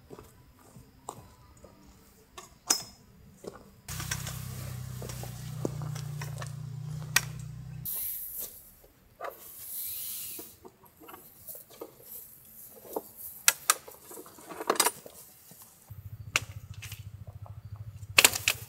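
Scattered knocks, clicks and clatter, with a low steady rumble from about four to eight seconds in and again near the end.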